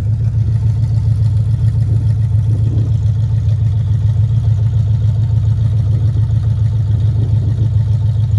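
Chevy Silverado engine idling on open headers with no exhaust at all, a loud, steady, rapid pulsing beat, still cold shortly after a cold start.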